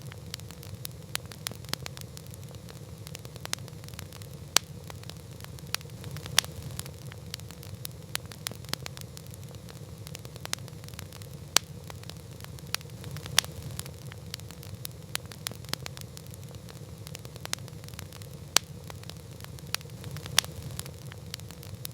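Campfire crackling: many small irregular pops, with a sharper, louder pop every couple of seconds, over a low steady rumble of burning.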